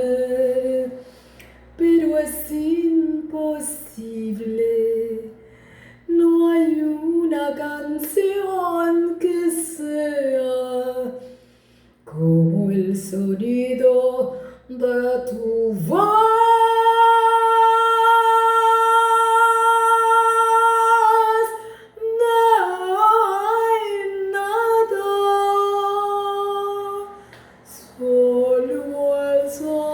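A woman singing a slow ballad in phrases, with one long, steady high note held for about five seconds midway through.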